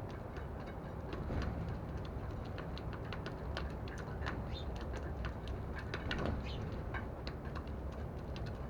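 A flock of sparrows chirping and pecking at seed in a dish: many short, high chirps and small ticks overlapping several times a second over a steady low background rumble.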